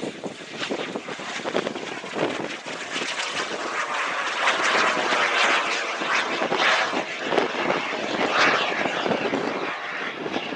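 SubSonex JSX-2 microjet's small turbojet engine passing overhead in flight, a steady rushing jet noise that grows louder toward the middle and fades again near the end.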